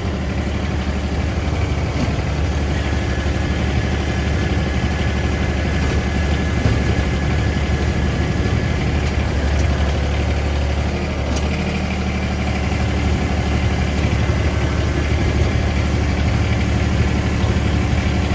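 Tractor engine running steadily at low revs while dragging a dead utility vehicle on a chain.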